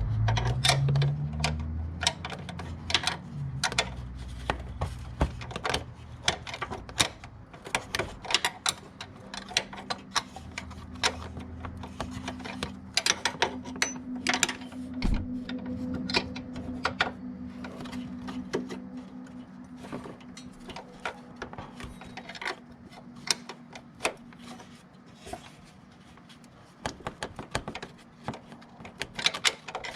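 Hand tools working on the engine's belt-drive parts, with many irregular metallic clicks and clinks. A low rumble rises briefly at the start, and a steady low hum runs through the middle.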